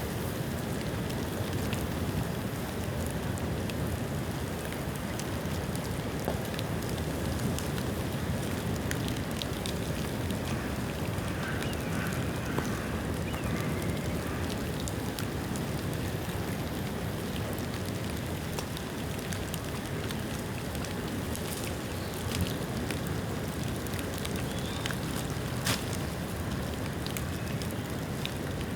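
Bamboo bonfire burning: a steady rushing noise with scattered crackles and pops, and two sharper pops about 22 and 26 seconds in.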